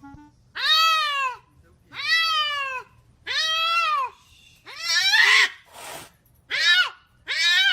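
A cat meowing over and over, about six drawn-out meows roughly a second apart, each rising and then falling in pitch.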